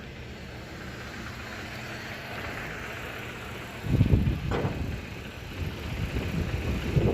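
Hyundai Accent engine idling with a misfire. A steady low rumble grows louder and uneven, pulsing, from about four seconds in.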